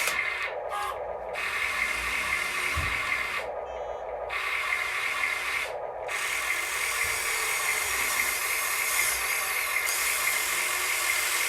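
Electric motors and gearing of a radio-controlled construction model running with a steady mechanical whine that cuts out briefly three times.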